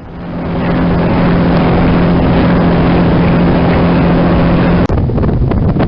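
A boat's engine running with a steady drone that fades up over the first second. Just under five seconds in it cuts off abruptly, and wind buffeting the microphone follows.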